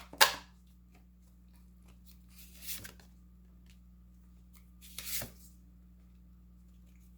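Tarot cards being handled and drawn from the deck: three brief papery rustles, the first just at the start and the others about two and a half seconds apart.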